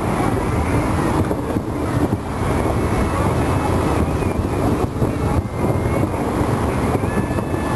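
A fireworks barrage heard from a distance: many overlapping bursts merging into a continuous rumble and crackle.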